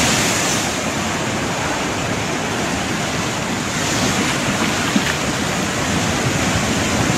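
Storm-driven sea surf washing ashore in a steady, continuous rush, with wind blowing across the microphone.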